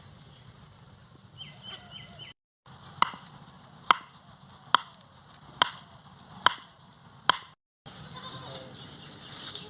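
Six sharp strikes, evenly spaced a little under a second apart, starting about three seconds in.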